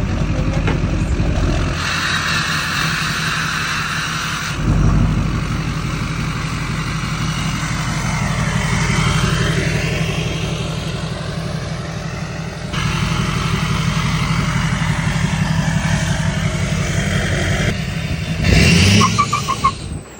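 Duramax LLY turbo-diesel pickup being driven, its engine running steadily with a rapid low pulsing from the truck and its plastic-wrapped wheels. The sound jumps abruptly a few times, and there is a louder noisy burst near the end.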